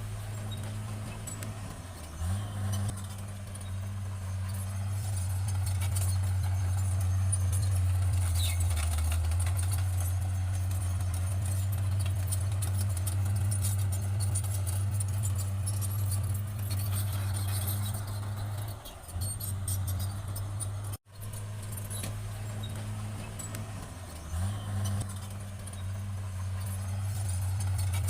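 Bulldozer's diesel engine running steadily with a low, even drone, revving up briefly about two seconds in and again near the end, with light metallic clinking and clanking from the tracks.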